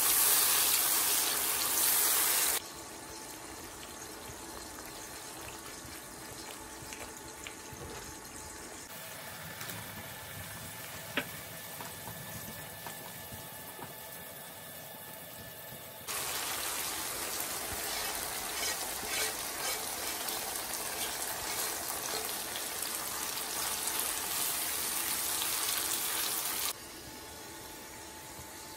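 Tomato masala, then keema (minced meat), sizzling in hot oil in a frying pan while being stirred with a silicone spatula, across a run of cut clips. A loud hissing sizzle at the start and again for about ten seconds after the middle, a quieter sizzle in between, and one sharp click near the middle.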